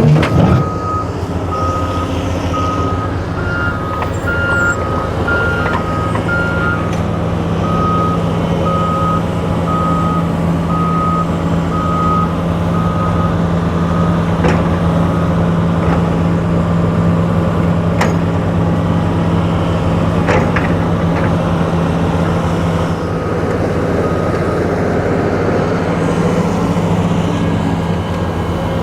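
Diesel engine of heavy earthmoving machinery running steadily, with a backup alarm beeping in regular pulses that stops about halfway through; for a few seconds near the start a second, slightly higher-pitched alarm beeps along with it. A few sharp metallic knocks come later.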